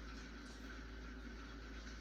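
Faint steady rain, an even hiss with a few light drop ticks.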